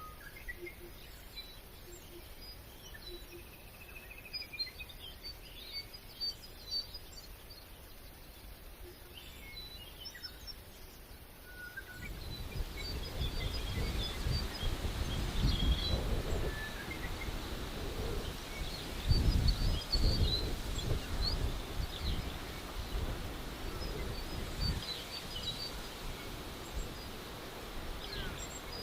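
Small birds chirping and calling in forest. About halfway through, low gusting rumble like wind on the microphone sets in, strongest about two-thirds of the way through.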